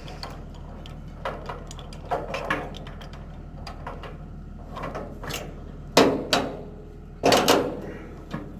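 Heavy logging chain and hooks clanking against steel, a string of sharp metallic knocks with the loudest about six and seven seconds in, over the steady low idle of the army dump truck's engine.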